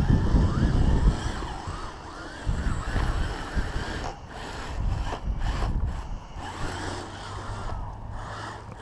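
Kyosho Blizzard RC snow vehicle's brushed electric motor whining, its pitch rising and falling with the throttle as it runs through snow. A low rumble of wind on the microphone is loudest in the first second.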